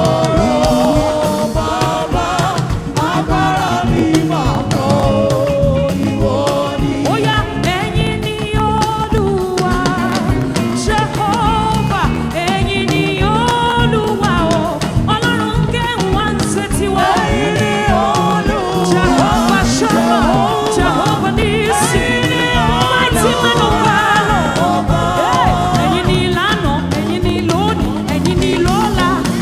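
Gospel worship music: a singer's voice over a band with a steady beat.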